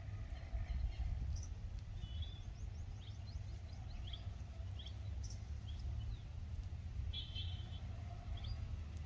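Birds chirping: many short, quick chirps and calls scattered throughout, with a rapid run of them about seven seconds in, over a low steady rumble.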